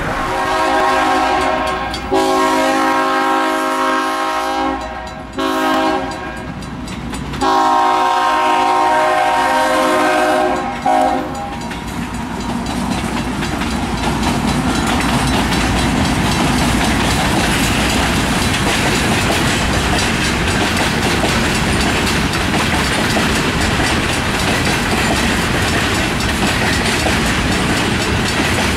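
A Union Pacific locomotive horn sounds a chord in long and short blasts for about the first eleven seconds, in a pattern close to the long-long-short-long grade-crossing signal. After that a loaded oil train of locomotives and tank cars rolls by with a steady rumble and clickety-clack of wheels on rail joints.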